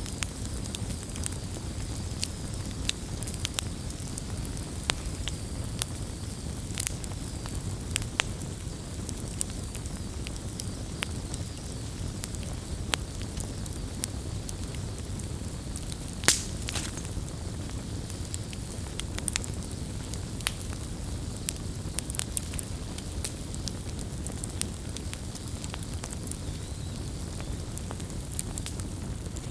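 Campfire burning, with irregular crackles and snaps of burning wood over a steady low rush, and one louder pop about sixteen seconds in.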